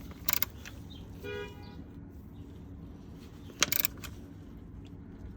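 Metal hand tools clicking and clinking in two short bursts, once near the start and again a little past halfway, while bolts under the car are tightened. A brief pitched tone sounds between them, over a steady low hum.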